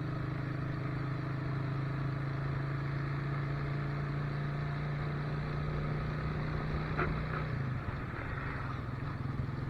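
Motorcycle engine running steadily while riding, over a constant rush of noise; about eight seconds in the engine note briefly changes.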